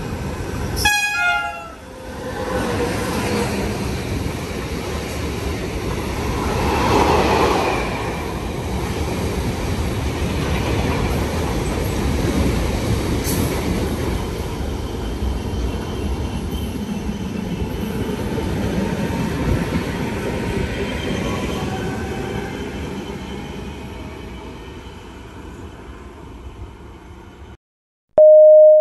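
A train passing through the station without stopping. It sounds a short horn blast about a second in, and the rumble of its passage peaks a few seconds later, then slowly fades away.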